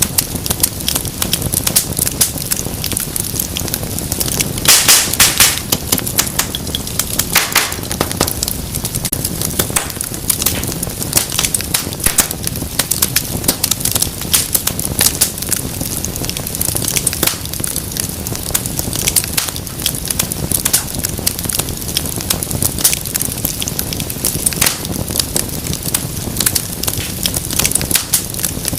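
Wood fire crackling and popping steadily over a low rumble of flame, with a burst of louder pops about five seconds in and again near eight seconds.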